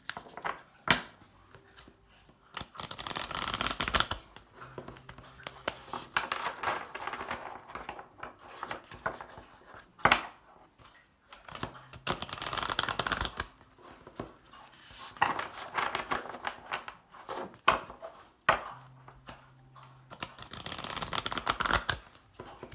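A deck of oracle cards being shuffled by hand in several rustling bursts a few seconds apart, with sharp clicks in between. A Labrador lapping water can be heard in the background.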